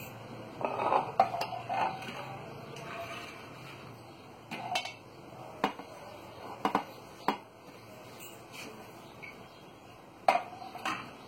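Kitchen utensils and containers knocking and clinking: a quick cluster of knocks about a second in, then single knocks every second or so, and a loud knock near the end.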